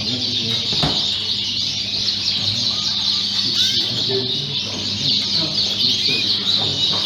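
A chorus of many Fife canaries singing and chirping at once, a dense, unbroken mass of quick high trills, with faint people's voices underneath.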